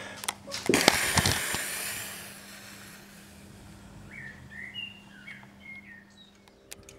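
Knocks and rustling of a handheld camera being moved in the first couple of seconds, then a small bird chirping several short calls about four to five and a half seconds in, over a faint steady hum.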